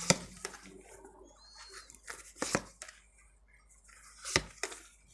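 Tarot cards being handled on a table: a handful of short soft slaps and rustles, the loudest about two and a half and four and a half seconds in.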